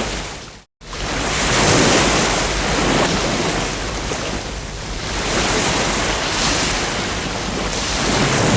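Ocean surf: waves breaking and washing in, swelling and easing every few seconds. The sound cuts out to silence for a split second under a second in.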